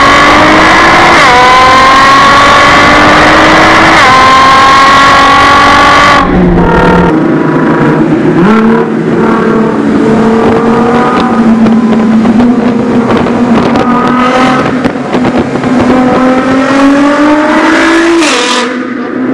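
Nissan GT-R R35's twin-turbo V6 through an Armytrix exhaust, accelerating hard with the pitch climbing, broken by two quick upshifts in the first few seconds, then lifting off about six seconds in. It then pulls again with the pitch rising slowly and lifts off near the end.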